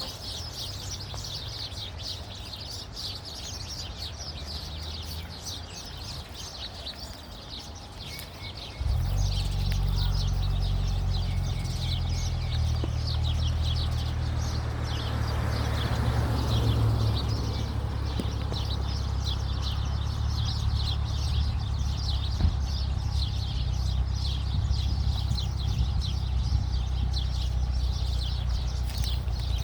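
A flock of small birds chirping continuously, many quick chirps overlapping. About nine seconds in, a steady low rumble starts suddenly and carries on under the chirping, louder than the birds, with a brief rising and falling whoosh near the middle.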